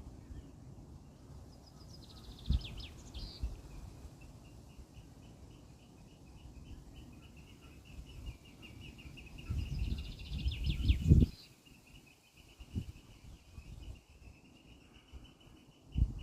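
Songbirds singing: two short descending trilled phrases, one about two seconds in and one about ten seconds in, over a steady run of rapid high chirping notes. Low wind rumble on the microphone comes and goes, loudest about eleven seconds in.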